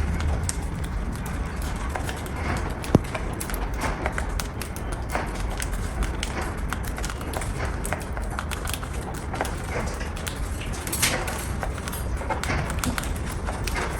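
Irregular light clicks and taps, with one sharper click about three seconds in, over a steady low rumble.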